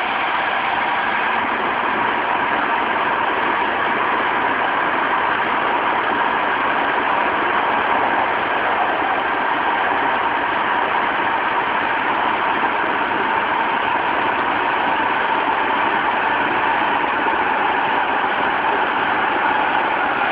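Tokyu 2000 series electric train running at speed in a tunnel: a steady rumble of wheels on rail, with several even whining tones from its Hitachi GTO-thyristor VVVF inverter and traction motors. The whine sags slightly in pitch near the end.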